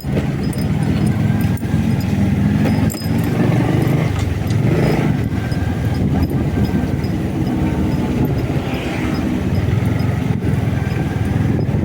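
Motorcycle engine running while riding, with steady wind rumble on the microphone.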